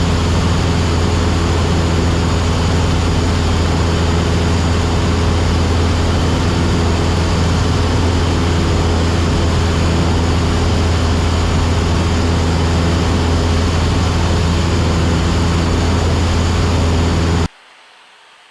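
Cessna 172SP's four-cylinder Lycoming IO-360 engine and propeller droning steadily in cruise, heard inside the cabin as a low, even hum with wind noise. Near the end it cuts off suddenly, leaving only a faint steady hiss.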